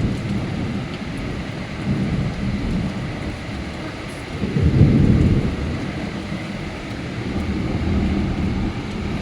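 Thunder rumbling over steady rain, with a louder roll of thunder about halfway through.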